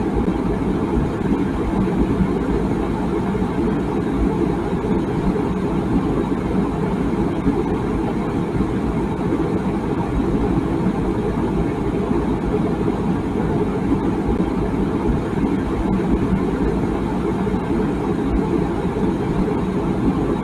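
Water boiling in a tea kettle: a steady low rumble with no whistle.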